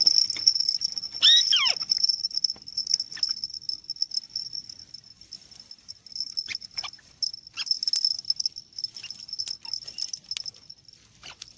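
A white-browed crake gives one call that glides steeply downward, about a second in, over the steady high-pitched drone of insects; scattered short clicks and rustles follow.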